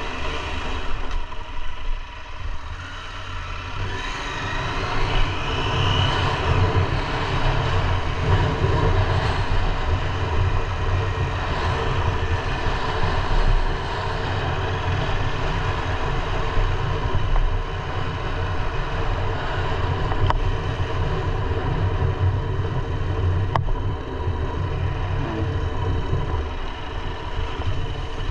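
KTM 890 Adventure R's parallel-twin engine running as the motorcycle is ridden, its level rising and falling with the throttle, with a brief dip about two seconds in.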